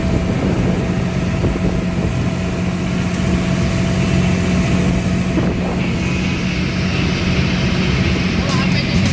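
A fishing boat's engine running steadily at constant speed, a low even hum with a faint higher tone over it.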